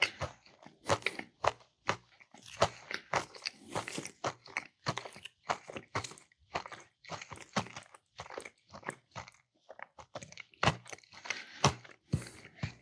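A person chewing crunchy food close to the microphone, with many irregular crunches and wet mouth sounds.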